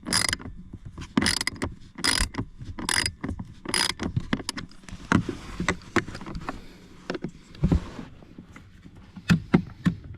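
Hand ratchet wrench clicking in short strokes as a bolt is run in, about one stroke a second at first, then scattered clicks and knocks of metal tools against the part.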